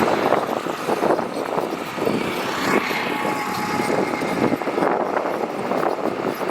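Heavy earthmoving machinery running while working gravel, a dense irregular clatter and crunch over the engine noise.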